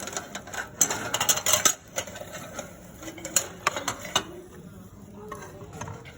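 Metal kitchen utensils clinking and scraping against a pot or bowl, as in stirring or mixing. The clatter is rapid in the first two seconds and turns to scattered knocks after that.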